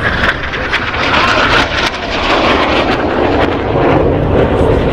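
Jet aircraft of the Turkish Stars' Canadair NF-5 display team flying past, a loud continuous rush of engine noise. About two seconds in it grows a little louder and its pitch drops.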